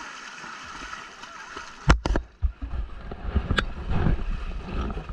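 Whitewater river rapids rushing around a paddled raft. Sharp knocks come about two seconds in, and after them the sound turns into a louder, rougher low rumble.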